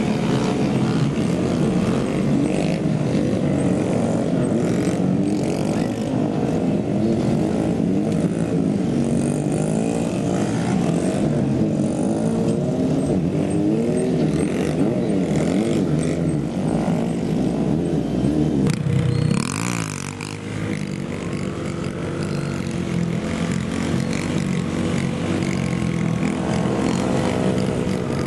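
Several small mini-bike engines (pit bikes and Honda Grom-type motorcycles) revving and running at once, their pitch rising and falling as riders throttle on and off. Near two-thirds of the way through there is a short rush of noise and the engines drop in level briefly.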